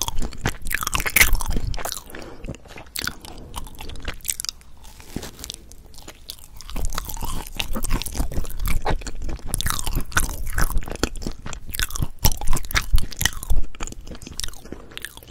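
Close-miked chewing of a potato bread with a browned crust and mashed-potato filling: many small wet mouth clicks and smacks. The chewing is busiest in the first two seconds and again through the second half, with a lighter stretch in between.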